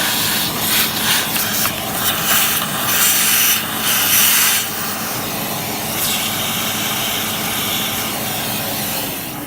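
Sebo X1 vacuum cleaner running and sucking dust and grime out of a dirty old vacuum's parts. The hiss of rushing air surges and drops as the nozzle rubs and scrapes over the surfaces.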